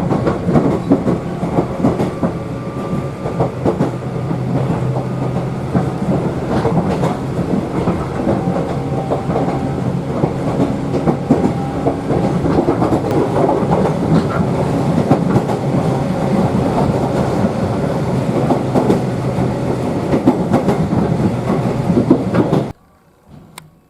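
Toyama Chiho Railway electric train running on the rails, wheels clattering over the track with a steady low hum underneath. The sound cuts off abruptly near the end.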